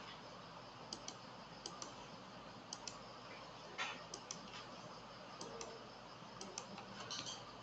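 Faint scattered clicks, several coming in quick pairs about a second apart from each other, with a brief louder rustle about four seconds in, over low room hiss.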